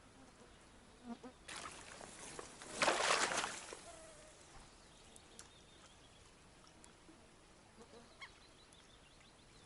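A cast with a spinning rod while popper fishing: a rush of noise for about two seconds, loudest around the third second, then quiet with a few faint clicks.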